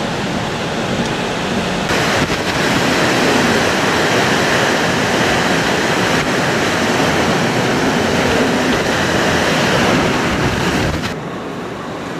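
Hurricane Michael's wind: a loud, steady rush of storm noise buffeting the microphone, louder from about two seconds in and dropping back near the end.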